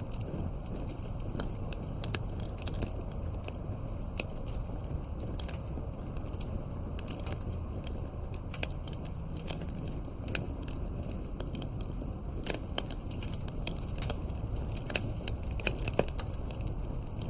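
Campfire crackling: irregular sharp pops and snaps over a low, steady rumble of the flames, with a few louder pops in the last third.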